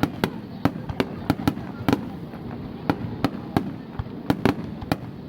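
Fireworks bursting in a rapid, irregular string of sharp bangs, two or three a second, over a continuous low rumble.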